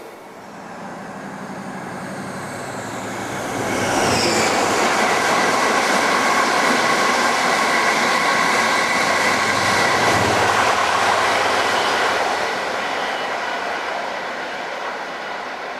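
A train passing close by: the sound builds, stays loud for about eight seconds, then fades away.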